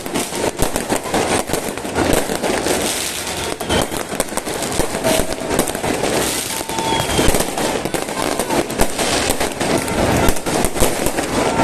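Fireworks going off without a break: a dense run of rapid bangs and crackling pops, with a few faint short whistles among them.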